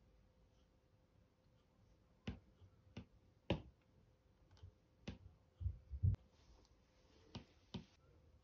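Apple Pencil tip tapping on an iPad's glass screen: a series of sharp, irregular clicks, with a couple of duller knocks about six seconds in.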